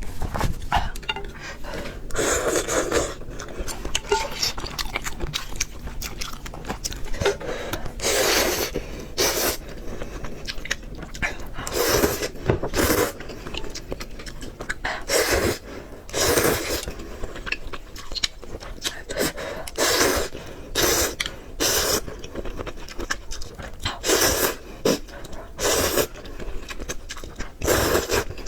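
A person eating noodles close to the microphone: irregular slurps and chewing, each noisy burst lasting up to a second, every few seconds.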